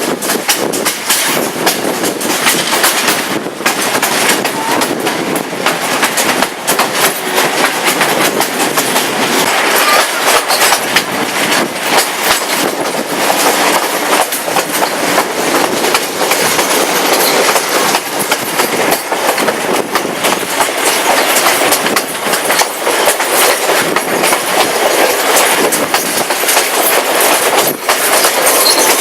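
Passenger train running along the track, wheels clattering steadily over the rail joints.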